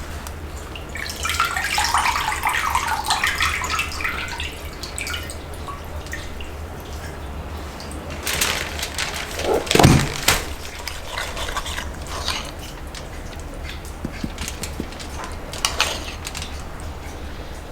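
Water splashing and trickling in short spells, loudest about two seconds in and again near ten seconds, over a steady low hum.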